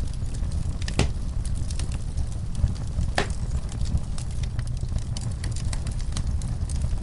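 Wood fire burning in a fireplace: a steady low rumble of the flames with scattered sharp crackles and pops from the burning logs, two louder pops about a second and three seconds in.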